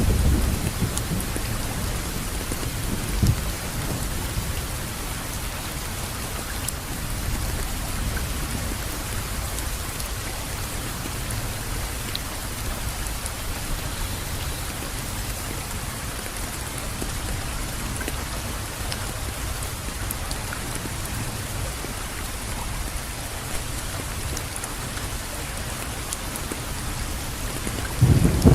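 Steady rainfall, an even hiss of many drops, with a low rumble underneath that is stronger near the start and swells again at the very end.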